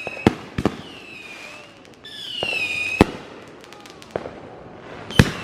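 Fireworks going off: several sharp bangs and pops, with high whistles that fall in pitch, one whistle running into a bang about three seconds in.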